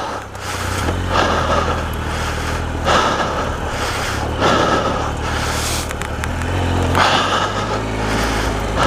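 Triumph Explorer XCa's three-cylinder engine running steadily, with heavy, hard breaths from the exhausted rider about every one and a half seconds.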